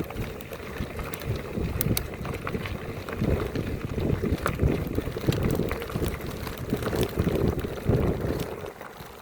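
Wind buffeting the microphone in uneven gusts, with scattered light clicks, easing off near the end.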